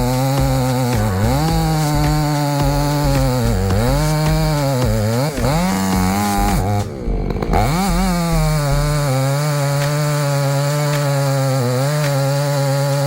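Chainsaw running at high speed and cutting wood, its engine note sagging in pitch again and again as the chain bites into the trunk, with a brief break about halfway through, then holding steady at full speed.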